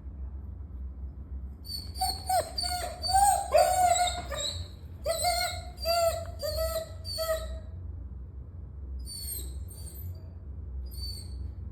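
German shepherd puppy whining: two runs of short, high whimpers, each call bending in pitch, then a few fainter whimpers near the end.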